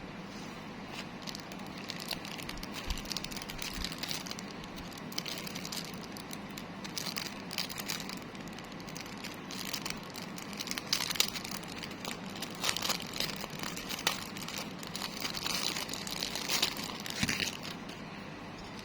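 Packaging crinkling and rustling in irregular bursts as it is handled and opened, busiest in the second half, over a steady background hiss.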